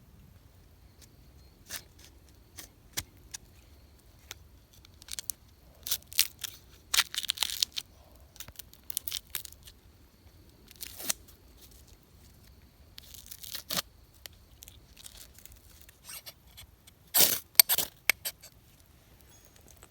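Crinkling and tearing of a thin material, such as plastic or fabric, handled in short irregular bursts, loudest about three quarters of the way through.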